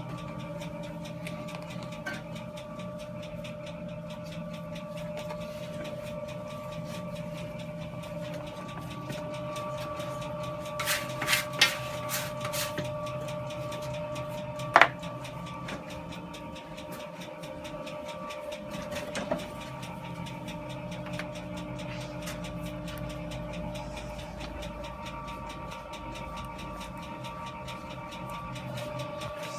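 A small machine motor running steadily, with a held whine and a fast, even rattle. A few sharp clicks come about eleven to thirteen seconds in, and a single loud knock follows a couple of seconds later.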